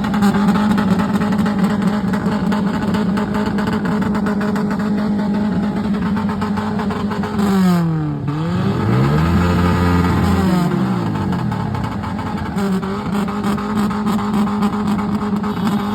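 Car engine held at steady high revs; about halfway through the revs drop and climb back up, then hold steady again.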